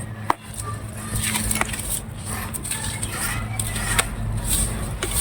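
Crisp crackling and crumbling of dry clay broken up under light pressure, a scatter of irregular sharp cracks, over a steady low hum.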